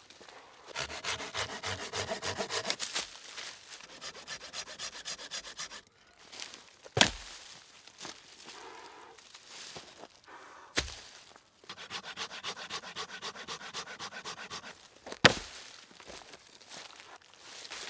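Rapid rhythmic scraping or rubbing strokes in runs of a few seconds, broken by three sharp knocks.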